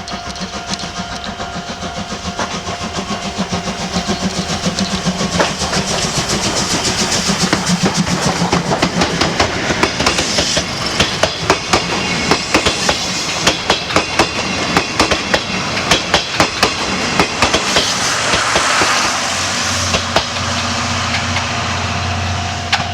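Steam-hauled passenger train rolling past on jointed track, its wheels clicking rapidly over the rail joints as it grows louder. A steady low hum sets in near the end.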